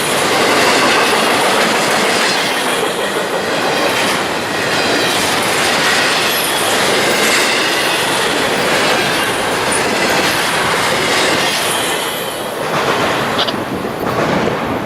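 A train rolling past close by: steel wheels clatter steadily over the rails, with a faint high wheel squeal.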